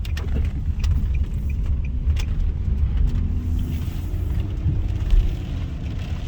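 Car running on the road, heard from inside the cabin: a steady low rumble of engine and tyres with a few light clicks and rattles.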